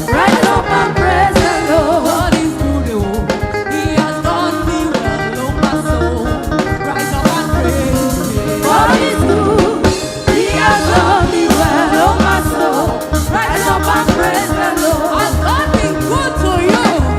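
Gospel praise singing with a band: voices with melodic runs over drums and a steady, repeating bass beat.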